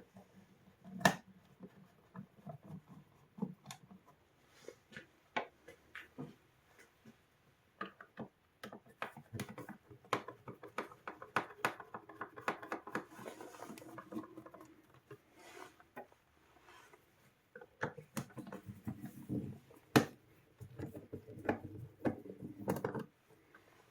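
Hands working on a Sonos Playbar's parts with small tools: irregular clicks, taps and scraping. The sharpest clicks come about a second in and again near twenty seconds.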